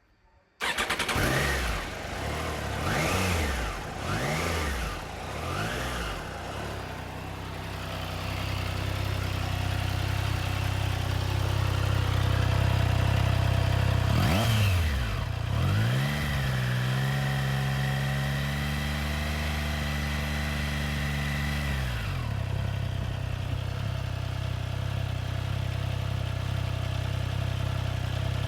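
Suzuki GSX-8 series 776 cc parallel-twin motorcycle engine starting, blipped four times in quick succession and then settling to a steady idle. Near the middle it is revved once, then held at a higher speed for about six seconds before dropping back to idle.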